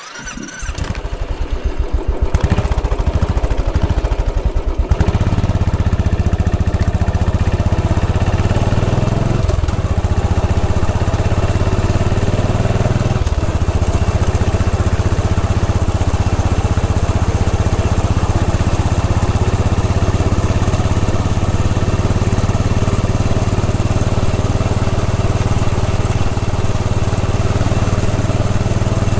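Royal Enfield Bullet 500 EFI's single-cylinder engine firing in slow, separate beats as the motorcycle pulls away. From about five seconds in it settles into a steady run at riding speed.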